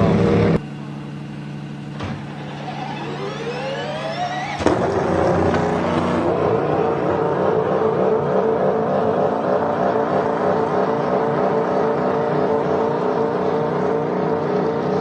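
Hybrid car's V8 engine cuts out about half a second in, leaving quieter electric-drive running with a whine that rises in pitch. About four and a half seconds in, the V8 starts up abruptly with a sharp onset and keeps running loudly.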